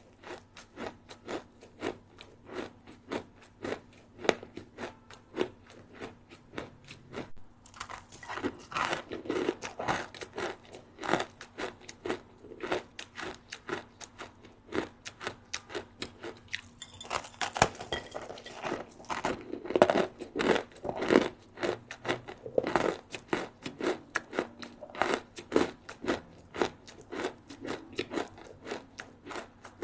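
A person chewing crispy rice snacks up close, with a continuous run of fast, crackling crunches. Louder, denser bursts of crunching come about eight seconds in and again around seventeen to twenty-one seconds, where fresh bites are taken.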